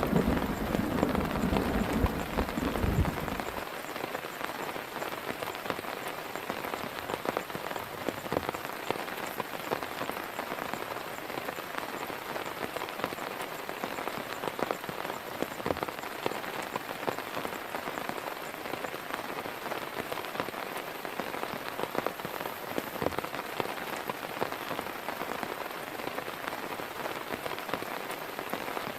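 Steady heavy rain falling on a surface, with many scattered drop ticks. A low rumble of thunder fades out about three and a half seconds in.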